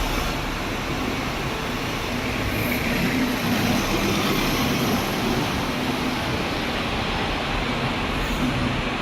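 Inside the cabin of an Enviro500 MMC double-decker bus with a Cummins ISL8.9 diesel and Voith DIWA864.5 gearbox: steady running noise of the engine, drivetrain and road, with no marked rise or fall.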